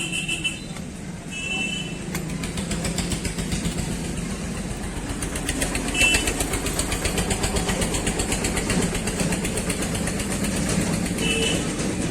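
Motorcycle engine running steadily with a fast even pulse, with a few short high beeps over it.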